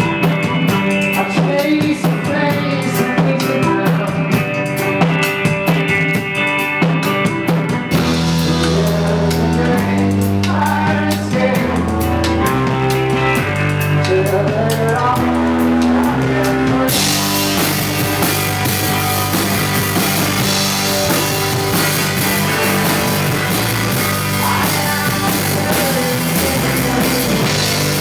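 Live rock band playing: a drum kit with guitar and bass. About eight seconds in the low end grows heavier, and about seventeen seconds in the sound fills out into a dense, crashing wash.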